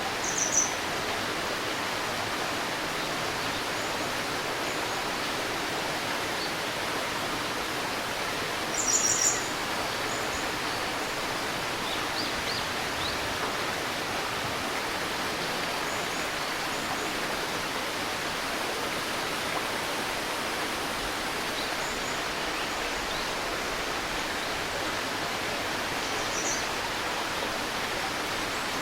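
A shallow river babbling steadily, with a few short, high bird chirps over it: the loudest about nine seconds in, others near the start and near the end.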